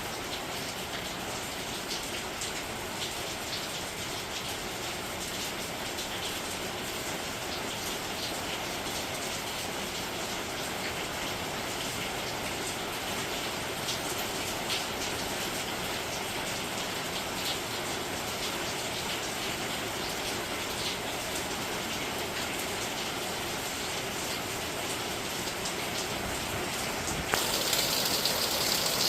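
Steady rain falling, with many individual drops ticking on hard surfaces. About 27 seconds in it suddenly gets louder and hissier.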